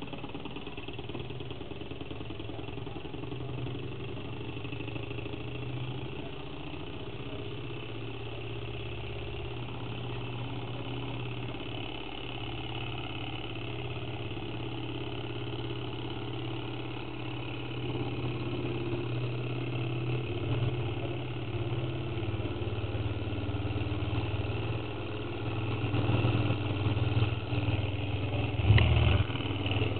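Model Stirling engine with a Ross yoke linkage running steadily, a continuous mechanical running sound that grows louder about two-thirds of the way through. A brief, louder knock comes near the end.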